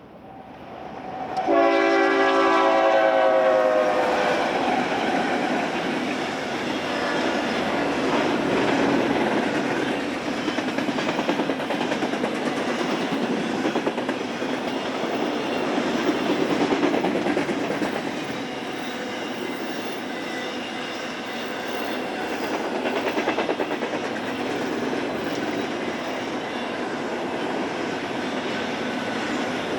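Eastbound BNSF freight train sounding its multi-note locomotive horn for about three seconds, the horn dropping in pitch as it passes. The train then runs by with a steady loud rumble and clickety-clack of wheels on the rails.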